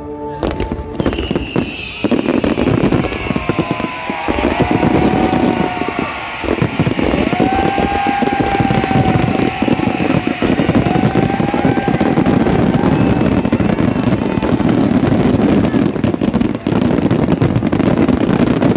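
Fireworks display: dense, continuous bangs and crackling from many shells bursting at once.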